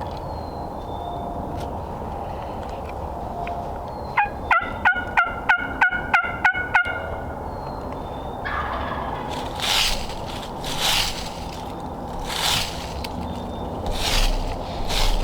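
A wild turkey gobbles once about four seconds in: a fast rattle of about ten notes lasting under three seconds. Several short bursts of noise follow later.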